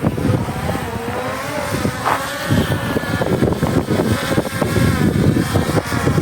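A vehicle driving, its engine note rising and falling over a steady clatter of jolts and rattles.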